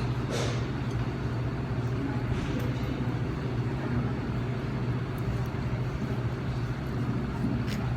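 Steady low hum of a car cabin with the engine running, and a few faint clicks and rustles over it.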